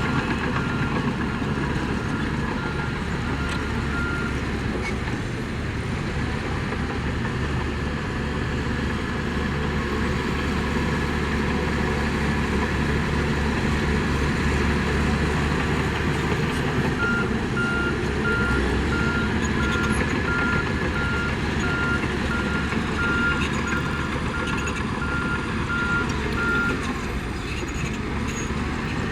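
Heavy diesel construction machinery running steadily. A reversing alarm beeps at an even pace over the first few seconds and again through most of the later part.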